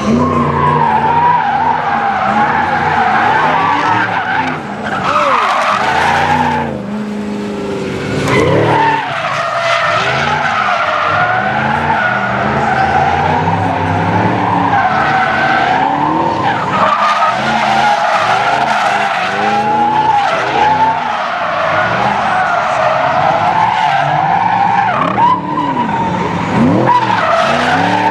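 Vehicle drifting: tires squealing continuously, the squeal's pitch wavering, while the engine revs up and down.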